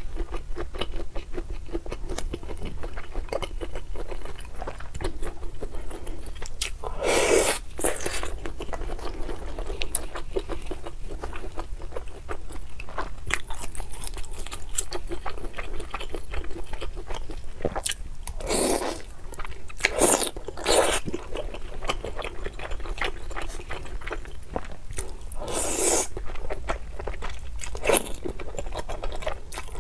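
Close-miked chewing and biting of oden, soft fried fish cake and tofu puffs in broth, a steady run of small wet mouth clicks, with a handful of louder wet bursts at intervals.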